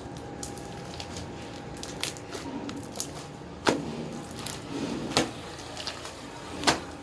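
Slime being mixed and worked, wet squishing with several sharp pops and clicks spread through.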